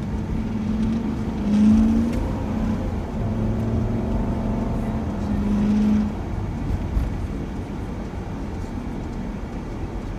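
Shuttle van driving, with steady engine and road noise. The engine note swells twice, about two seconds in and again around six seconds.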